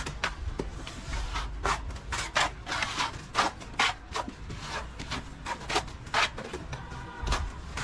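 Plastering tool scraped over a wall surface in repeated short strokes, about two a second.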